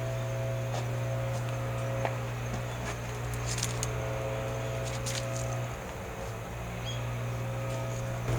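Wood fire crackling, with a few sharp scattered pops, over a steady low hum that drops out briefly about six seconds in.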